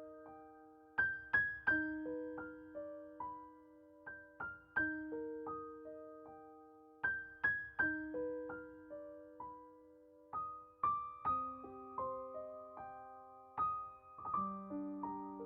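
Background music: solo piano playing slow, gently repeating arpeggios, each note ringing out and fading.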